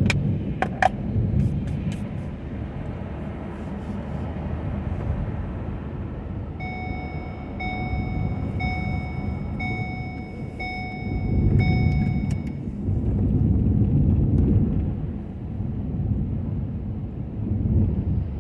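Ford F-250 plow truck running, a steady low engine and road rumble that swells partway through. Midway, an electronic beep sounds about once a second, six times. There are a few sharp clicks near the start and again around the last beep.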